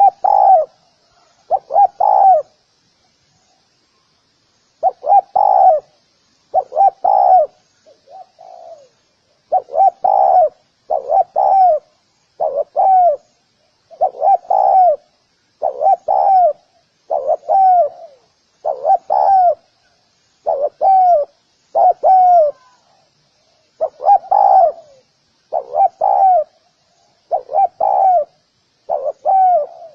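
Spotted dove cooing over and over in short phrases of two or three low notes, about one phrase a second, with a pause of a couple of seconds near the start.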